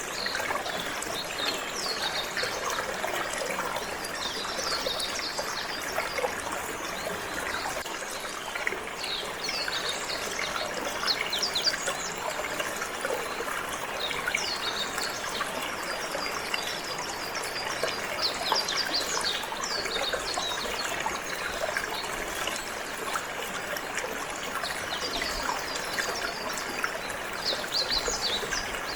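Water running steadily, like a small stream, with a canary singing over it in many short, quick chirps and trills.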